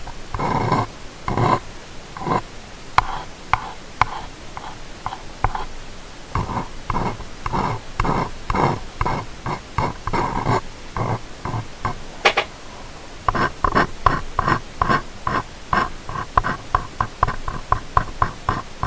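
Close-miked ear-cleaning strokes: an ear pick or swab scraping and rubbing inside a microphone's ear, in short scratchy strokes. They are uneven at first, then a sharp click, then quick even strokes about three or four a second.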